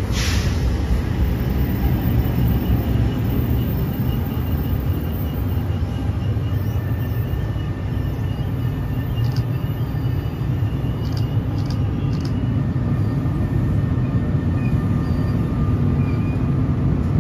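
NJ Transit trains rolling through the station: a multilevel train on the far track and an electric-locomotive-led train coming in on the near track. They make a steady rumble of wheels on rail, with faint thin whines and a few light clicks from about six seconds in.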